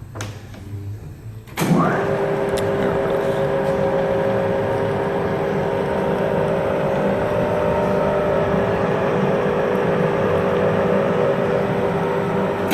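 Cincinnati Bickford radial drill press switched on about a second and a half in: its 5-horsepower electric motor whines up to speed, then the spindle drive runs steadily at 460 RPM with a steady gear whine.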